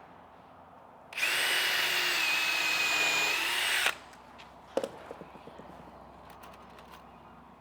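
Power drill running in one steady burst of about three seconds, a high whine that winds up at the start and drops as it stops, as a screw is driven into a wooden runner. A sharp knock follows about a second later.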